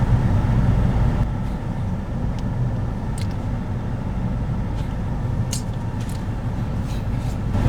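Steady low rumble of a car heard from inside the cabin, with a couple of faint clicks.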